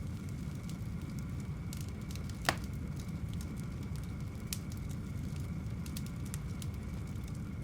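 Wood fire burning in a fireplace: a steady low rumble with scattered small crackles and one louder sharp pop about two and a half seconds in.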